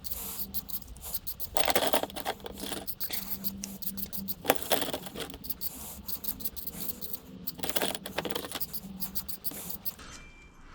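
Rusty metal parts of a hydraulic jack being scraped and scrubbed by hand to free the rust, with many clinks of metal on metal and several louder scraping strokes. It stops near the end.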